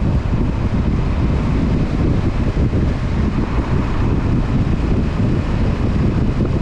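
Honda CB500F's parallel-twin engine running at a steady cruise, heavily overlaid by wind rushing over the microphone while riding.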